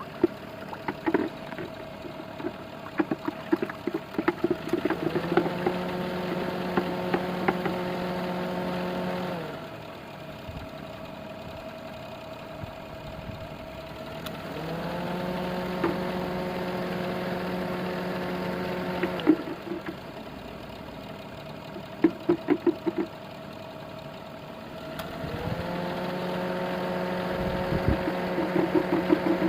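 Car engine idling while the air conditioning is charged with refrigerant. The air-conditioning compressor cycles on and off: a steady pitched hum cuts in three times, about every ten seconds, runs for about four seconds each time, then drops out. Rapid ticking can be heard in the gaps between.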